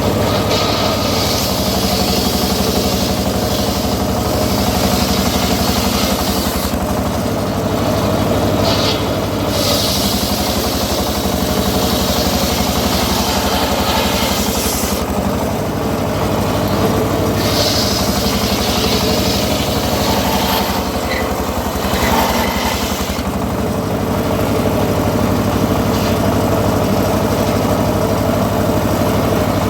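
Engine of a homemade circular sawmill running steadily, with a higher hiss that swells and drops away several times.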